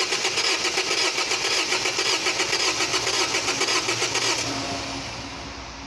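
2003 Mazda 323 Astina's four-cylinder engine turned over by the starter motor without firing, a fast even pulsing that stops about four and a half seconds in. The cranking is for a relative compression test, which shows one cylinder low on compression.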